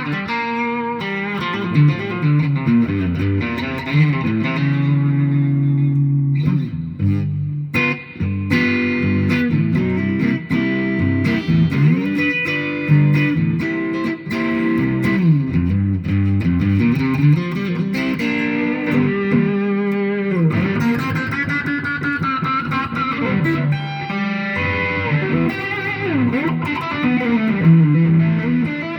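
Telecaster-style electric guitar being played: a run of melodic single-note lines and chords with frequent string bends and slides.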